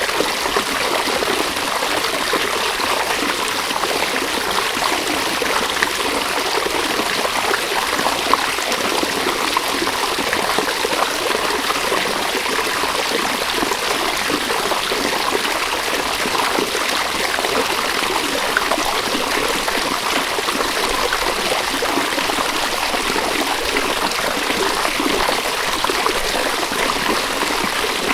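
A river running steadily over stones, a constant trickling and babbling rush of water.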